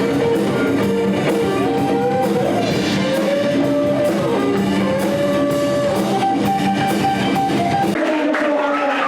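Rock band playing: electric guitar over drums, with singing. The bass and low drums drop out near the end.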